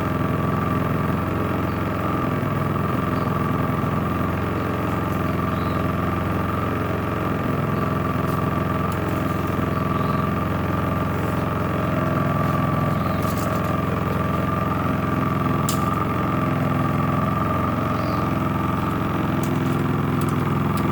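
Champion 4650 inverter generator's small single-cylinder four-stroke engine running steadily in eco mode at low speed, with a steady hum and a constant higher whine, echoing in a concrete garage. A meter reads about 83 decibels at three feet.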